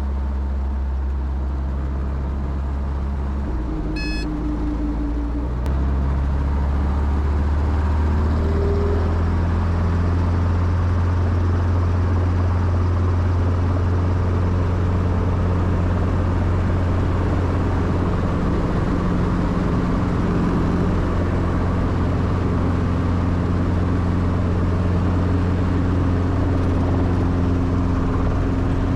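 Piston-engine helicopter running on the ground shortly after start-up, a steady low engine-and-rotor drone that steps louder and slightly higher about six seconds in as it runs up. A brief high beep sounds about four seconds in.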